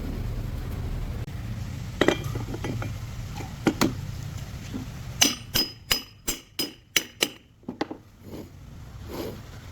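Sharp metallic clinks and taps of hand tools on metal: a couple of single knocks, then a quick run of about eight strikes, roughly three a second, over a low rumble that dies away partway through.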